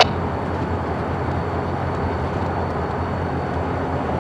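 Steady low rumble of a diesel switching locomotive running in the rail yard, called ahead by radio. A short click from the radio cutting off comes right at the start.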